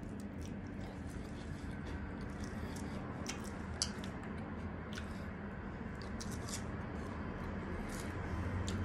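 Crispy breadcrumb-coated deep-fried chicken skin being torn apart by hand and chewed: scattered small crackles and crunches, with one sharper crunch about four seconds in. A steady low hum runs underneath.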